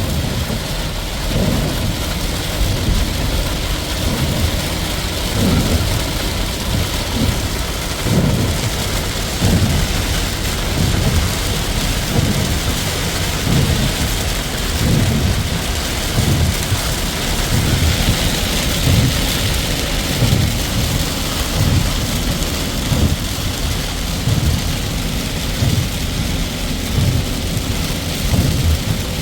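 Steady rain hiss, with low rumbling pulses about once a second beneath it.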